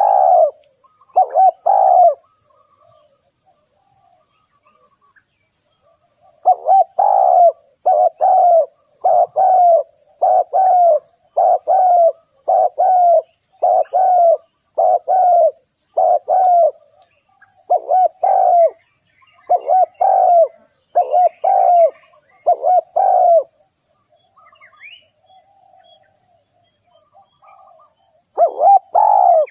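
Spotted dove cooing: short, low coos repeated about once a second in long runs, with pauses a couple of seconds in and again a few seconds before the end. It is the calling of a decoy dove used to lure wild doves.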